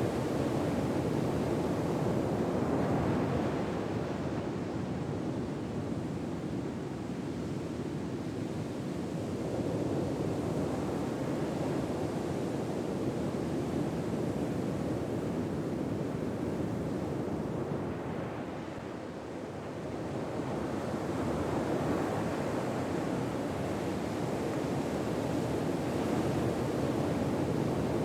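Ocean waves washing onto a shore: a steady surf that swells and eases slowly, with a brief lull a little past the middle.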